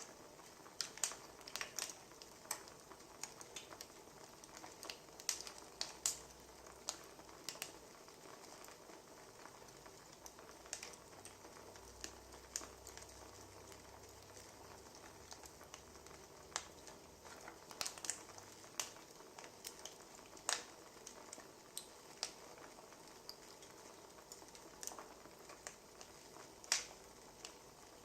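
Firewood crackling in a fire: irregular sharp pops and snaps, several a second in clusters, over a faint steady hiss.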